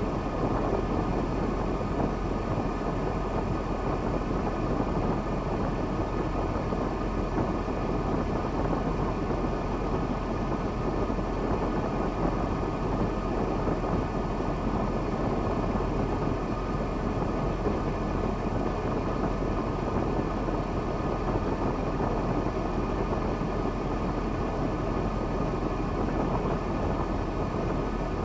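KAMAZ log truck's diesel engine running at a steady pace, an unbroken drone with no changes in speed.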